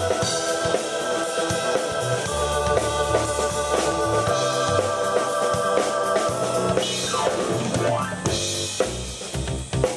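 Live keyboard and drum kit playing a rock jam: sustained keyboard chords and bass notes over a steady drum beat with bass drum and snare. About seven seconds in, the keyboard slides in pitch.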